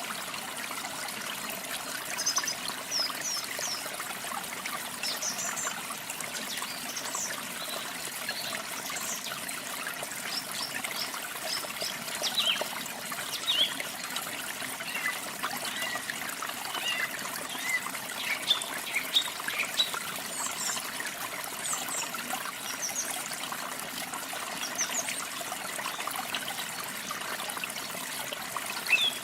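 Steady rushing and trickling of falling water, with small birds chirping and singing in short high calls scattered throughout.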